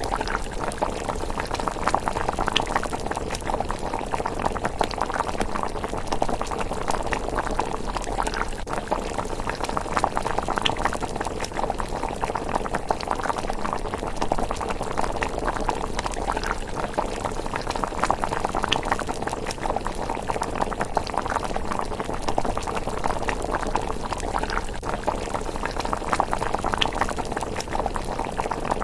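A pot of miso rice porridge simmering, with thick bubbles popping in a steady, dense patter.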